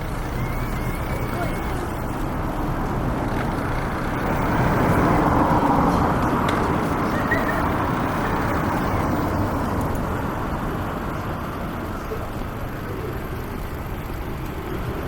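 City street traffic, with a vehicle passing close and louder about four to seven seconds in.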